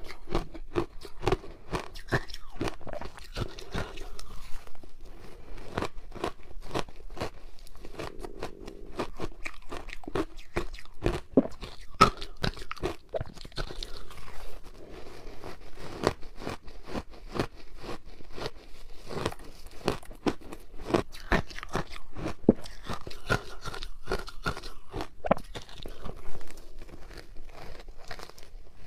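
A person biting and chewing a frozen matcha ice ball: a steady run of sharp, irregular crunches of hard ice between the teeth.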